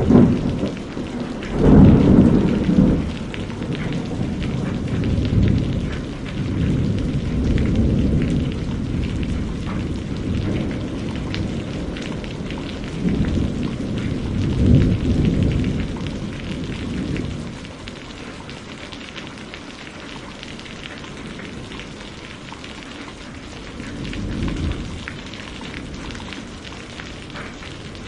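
Steady rainfall hissing, with rolling thunder underneath. A loud rumble comes in the first few seconds, more rumbles come around the middle, and a fainter one comes near the end, after which the storm is quieter.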